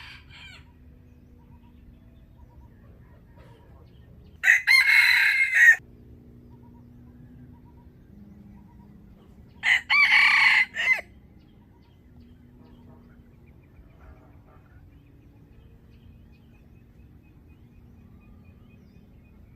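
Rooster crowing twice, two loud crows of about a second and a half each, the second about five seconds after the first, over a faint steady hum.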